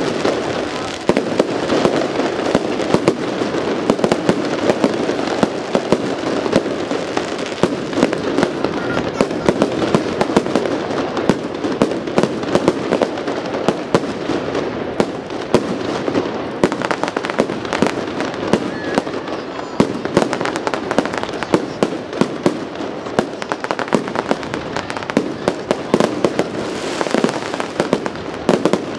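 Fireworks display: a dense, continuous stream of bangs and crackling from bursting shells and sparking stars, many sharp reports a second.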